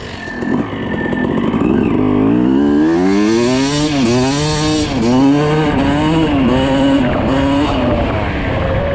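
2006 Suzuki RM250's single-cylinder two-stroke engine being revved. It runs low and uneven for about two seconds, climbs in one long rev, then is blipped up and down about once a second. The freshly rebuilt engine is running well, with the owner saying it idles great and has no leaks.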